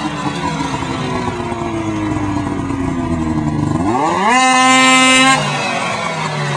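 Polaris RMK 600 snowmobile's two-stroke engine running with its revs slowly sagging. About four seconds in it is revved sharply, held high for about a second, then let back down.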